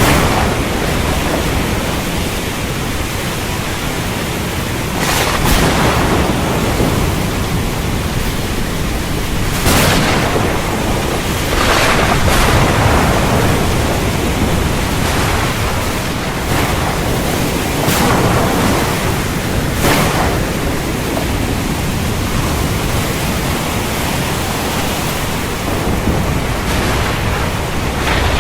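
Thunderstorm: steady heavy rain over a deep rumble of thunder, with several sudden sharp cracks breaking through.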